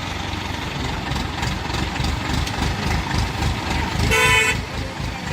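Road traffic: a steady vehicle engine rumble, with a single vehicle horn honk about four seconds in, lasting about half a second, the loudest sound.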